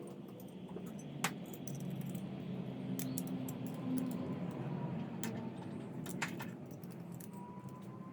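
Scattered light metallic clicks and clinks of small parts or tools being handled, over a steady low hum.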